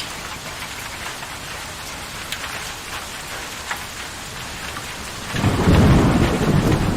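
Steady rain falling, with scattered drops ticking on a surface; about five seconds in, a loud rolling rumble of thunder sets in and goes on to the end.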